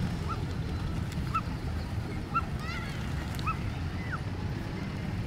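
Short bird calls, single arched chirps about a second apart with one quick trill near the middle, over a steady low rumble of city background noise.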